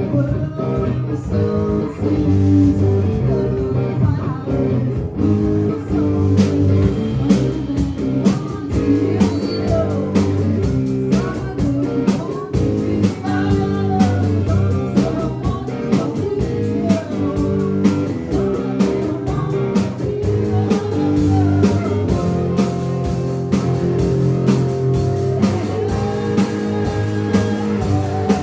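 Live band playing: guitar, bass and drums, with a bending lead melody over a repeating bass line.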